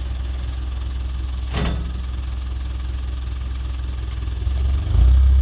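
Stuck tipper truck's engine idling with a steady low rumble, with a single knock about a second and a half in. Near the end the engine gets clearly louder as it revs up.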